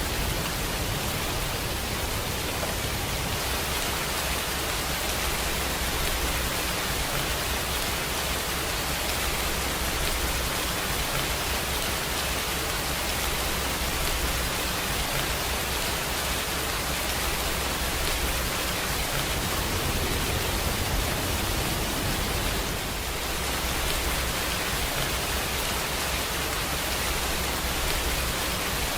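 Steady heavy rainfall: a dense, even hiss with no separate drops standing out and a low rumble underneath.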